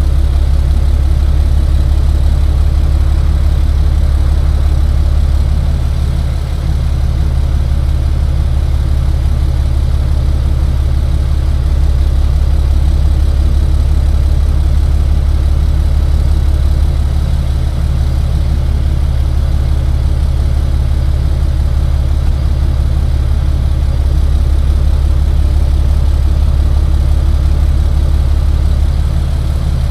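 Tow truck engine running with a steady low drone.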